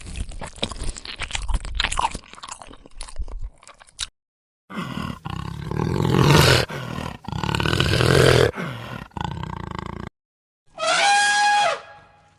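Three separate animal sounds one after another. First comes about four seconds of dense crackling and crunching, then a deep, rough animal call in several bouts that rise and fall in pitch, then one short pitched call, about a second and a half long, that rises and then falls.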